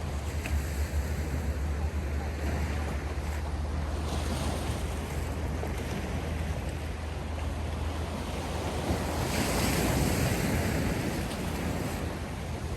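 Sea waves washing onto the shore, with wind rumbling on the microphone. The surf swells louder a few times, most strongly about nine seconds in.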